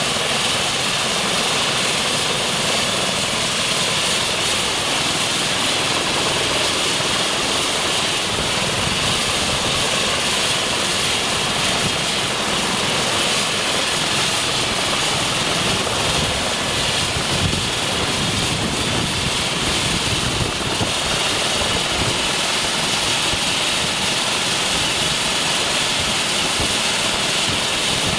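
Eurocopter EC135 T2 twin-turbine helicopter running, with a steady high turbine and rotor noise that holds an even level throughout.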